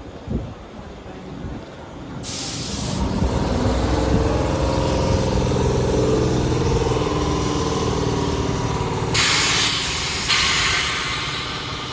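Tobu 8000 series electric train with a steady mechanical hum that builds up about two seconds in, broken by two bursts of compressed-air hiss, a short one and then a longer one of about two and a half seconds near the end.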